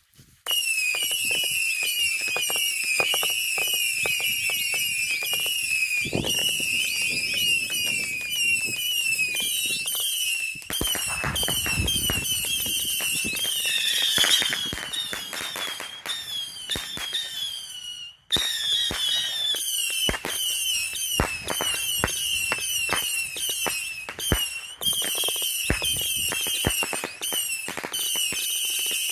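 200-shot Saturn missile battery firing: a rapid, continuous stream of whistling missiles, their overlapping whistles mixed with many sharp pops and cracks. It starts about half a second in, with a brief break a little past the middle before it resumes.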